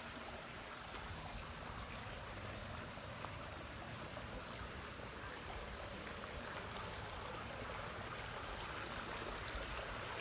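Steady splashing of water from a small backyard pond waterfall spilling into the pond.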